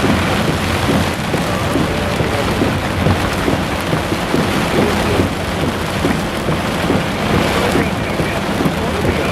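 Heavy thunderstorm downpour: rain falling hard and steadily, with a dense patter of drops splashing.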